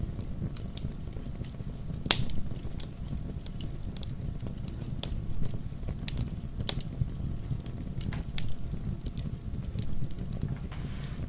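Wood fire crackling in a fireplace: scattered pops and snaps over a low steady rumble, with one louder pop about two seconds in.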